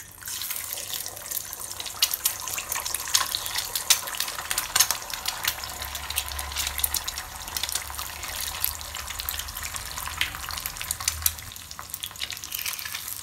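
Two eggs frying in hot oil in a kadai: a steady sizzling hiss with many sharp spattering pops.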